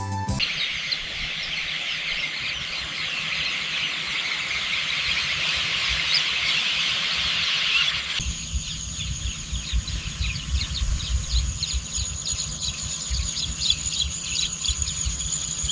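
Countryside ambience of many small birds chirping densely together. About eight seconds in it changes abruptly to a steady high-pitched insect drone with repeated chirps over it and a low wind rumble.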